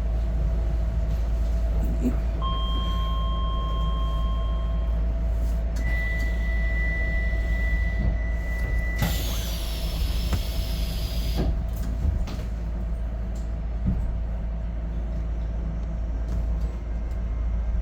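Docklands Light Railway train standing at a platform with a steady low hum. A two-tone door warning beep sounds about two seconds in, then a single longer steady beep, and near the middle the sliding doors close with a brief hiss.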